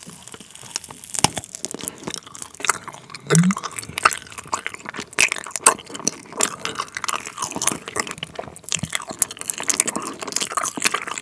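Close-miked biting and chewing of a Trolli Planet Gummi, a chewy gummy candy with a liquid jam filling. It makes a dense, irregular run of small sticky, crackly mouth clicks.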